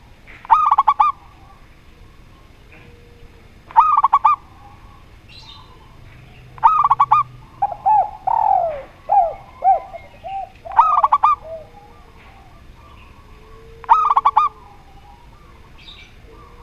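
Zebra dove (perkutut) and spotted dove (tekukur) calling. A short, rapidly pulsed cooing phrase is repeated five times, about every three seconds. Between roughly eight and eleven seconds in comes a run of falling coos.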